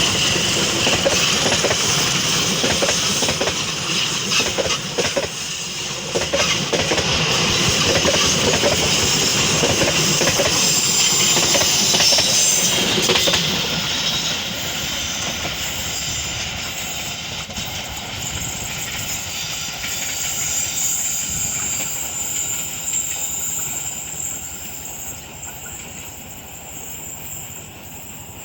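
Locomotive-hauled passenger train running past on the track, its wheels clacking over the rails. It is loud for about the first dozen seconds, then fades steadily as it moves away.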